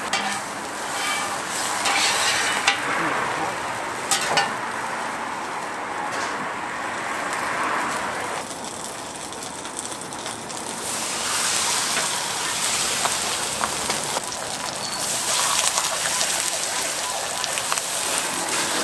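Korean pancake (jjijim) batter frying in oil on a hot griddle: a steady sizzle, with a few sharp clicks in the first few seconds.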